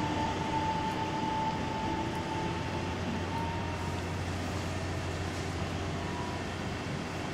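Taiwan Railway electric multiple unit pulling away and receding, its running noise slowly fading. A steady whine from the train fades out about halfway through.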